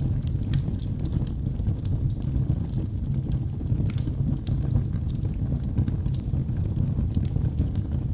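Wood fire burning in a fireplace: a steady low rumble of flames with scattered sharp crackles and pops. A few louder snaps come about four seconds in and again about seven seconds in.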